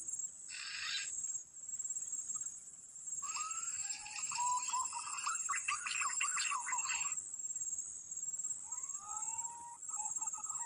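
Whistled green pigeon (punai) calls, twice: each opens with a rising, then level whistle and runs into a quick warbling series, used to lure the birds. A steady high insect drone runs underneath.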